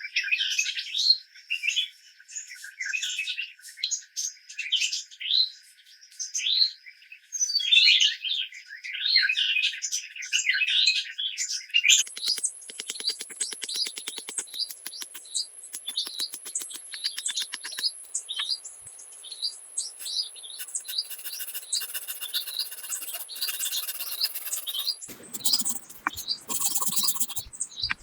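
Forest birds chirping and calling repeatedly in short, quick notes. About halfway through, a fast, even ticking joins with a thin, steady high whine, and near the end the background turns noisier.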